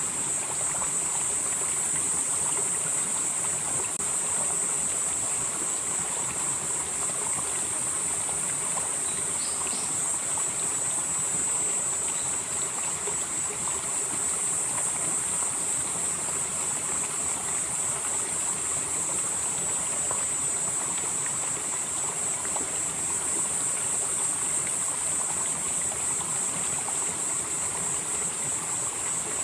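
Valley stream flowing steadily over rocks, with insects shrilling continuously in a high, thin band that swells and eases every few seconds.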